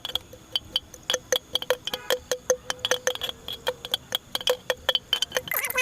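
Mint leaves being crushed in a glass: repeated sharp knocks of the crushing tool against the glass, about three to four a second, each with a brief glassy ring.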